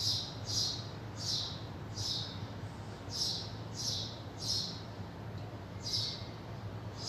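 A small bird chirping repeatedly, short high chirps a little over one a second, with a brief pause about five seconds in. A steady low hum runs underneath.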